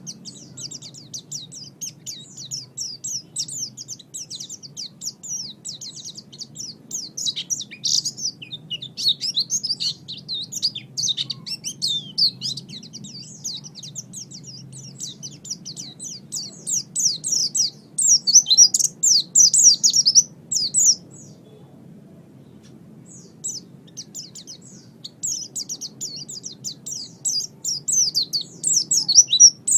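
White-eye (pleci) singing a long, fast twittering song of quick, high, sliding notes, breaking off for about two seconds roughly three quarters of the way through and then resuming. A faint steady low hum runs underneath.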